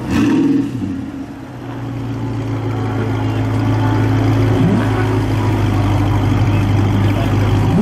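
A supercar engine gives a short loud blip at the start, then idles steadily and grows louder over the next few seconds. It gives a brief rising blip about four and a half seconds in.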